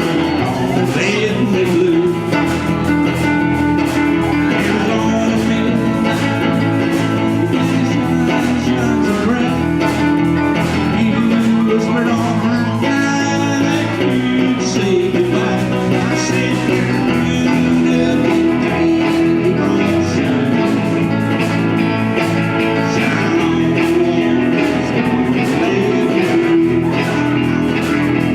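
A small band playing blues-flavoured rock, led by electric guitar, steady and continuous.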